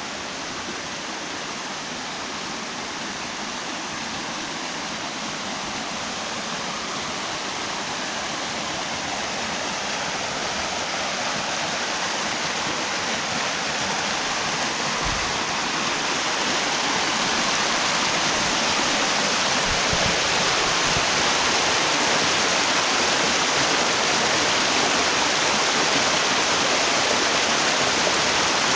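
Mountain stream rushing after about 22 mm of rain, a steady wash of water that grows gradually louder throughout.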